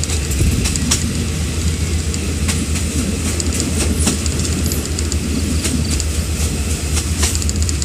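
Passenger train running along the track, heard from an open carriage window: a steady low rumble of wheels on rail with scattered sharp clicks.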